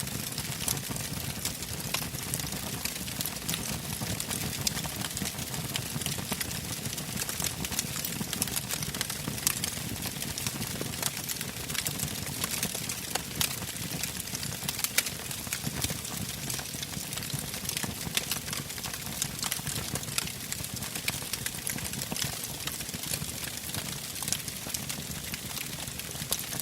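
Wood campfire burning: a steady hiss and low rush of flames with frequent sharp, irregular crackles and pops from the burning logs.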